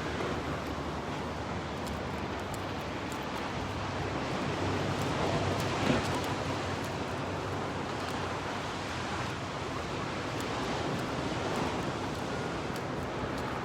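Steady wash of ocean surf mixed with wind on the microphone, with one brief sharp knock about six seconds in.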